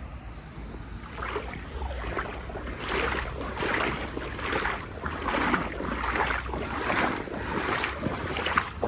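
Legs wading through deep floodwater, a swishing splash with each stride about every three quarters of a second, starting about a second in. Under it is a steady low rumble of wind on the microphone.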